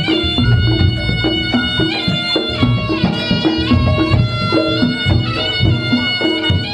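Reog Ponorogo gamelan music: a reedy slompret melody sliding between notes over a repeating pattern of drums and gong strokes.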